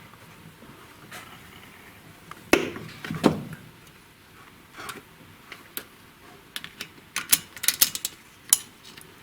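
Metal tools knocking and clicking on the valve gear of a car engine's cylinder head during valve-spring and keeper work: two heavier knocks a few seconds in, then a run of sharp metallic clicks near the end.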